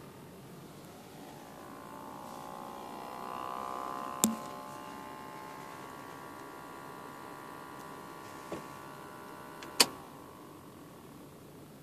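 Electric whine from inside the dash of a 2005 Mazda 3 with the ignition on: several steady tones together, swelling in over the first couple of seconds and fading near the end, with three sharp clicks. The owner suspects the air-conditioning system.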